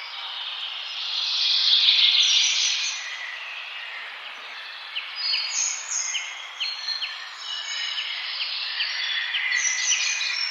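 Several wild birds singing and chirping together over a steady background hiss. About a second in, a dense, loud stretch of high song builds; from about halfway through, a run of short, sharp repeated notes comes roughly twice a second.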